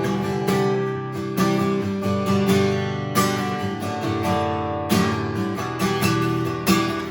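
Acoustic guitar strumming sustained chords in a steady rhythm, an instrumental stretch of a worship song without singing.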